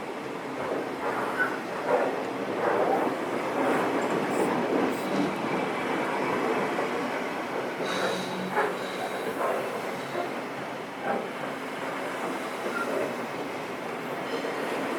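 A train running past on the track, its wheels clattering over the rails in a steady rumble with irregular knocks, and a brief high wheel squeal about eight seconds in.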